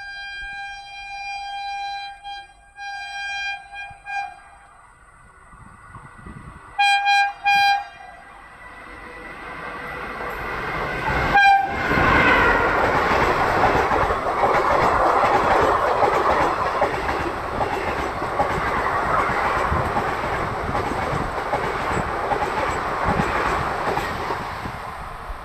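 Express passenger train hauled by an electric locomotive running through a station at speed. The locomotive horn sounds in a series of blasts as it approaches, with two short loud blasts about seven seconds in. From about eleven seconds the train rushes past with a loud, steady rumble of coaches and wheels on the rails.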